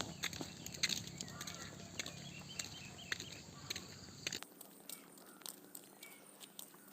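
Footsteps on a village path with scattered small crackles and clicks, and faint bird chirps in the first half; a low background hum cuts out abruptly about four and a half seconds in.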